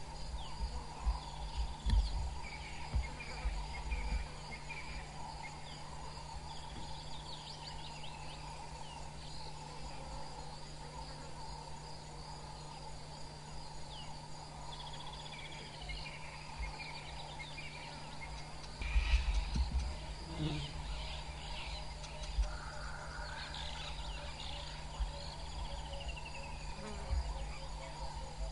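Dawn bush ambience: insects chirring in a steady pulsing chorus, with birds calling in short falling notes now and then. Low rumbles hit the microphone near the start and again about two-thirds of the way through.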